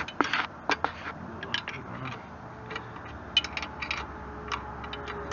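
Irregular small metallic clicks and clinks of hand tools working on the bolts and nuts of a backhoe's joystick control linkage.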